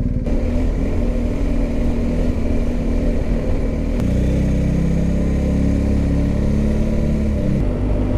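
BMW R1250GS boxer-twin motorcycle engine running while riding, with a steady rush of air noise; the engine note changes about four seconds in.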